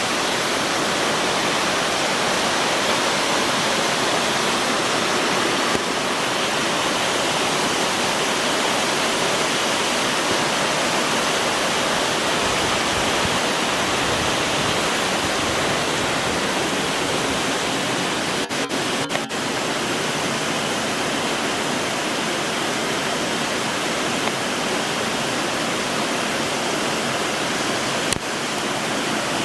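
Waterfall cascading over rock, a steady loud rush of water, with a few brief clicks about two-thirds of the way in and again near the end.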